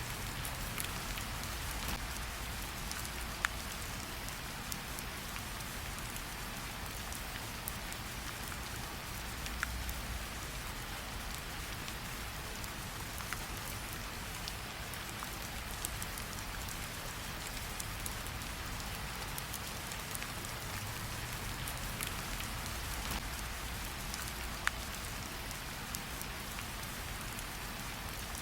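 Steady rain falling together with a campfire, an even hiss of rain with a few sharp pops of the fire crackling.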